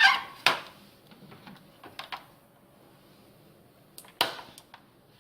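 Handling noise: a few sharp clicks and knocks as things are moved and set down, the loudest about half a second in and another about four seconds in.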